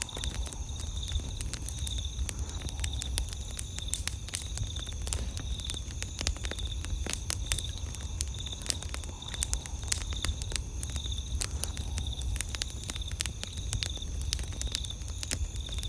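Wood campfire crackling, with frequent sharp pops and snaps over a low steady rumble. Night insects trill steadily in the background, one of them pulsing about twice a second.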